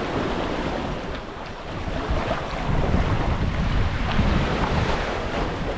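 Sea swell surging and sucking back around the rocks beside a sea kayak, a strong suction of the water against the boat, with wind buffeting the microphone. The low rush grows louder about halfway through.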